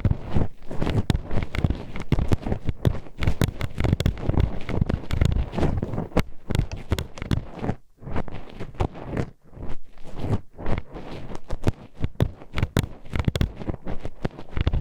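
Metal hairpin poking and scraping inside the ear of an ASMR binaural microphone, making dense, irregular clacking clicks and knocks with a couple of short pauses.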